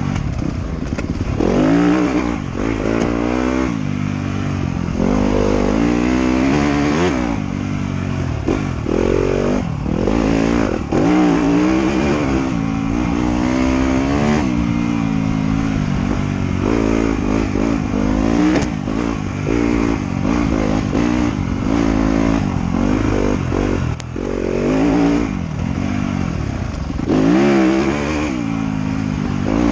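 Trail motorcycle engine being ridden hard, revving up and easing off again and again, its pitch rising and falling every second or two.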